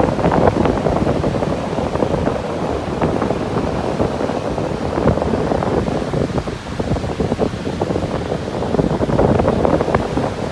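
Sea surf breaking and washing on a beach, with wind buffeting the microphone.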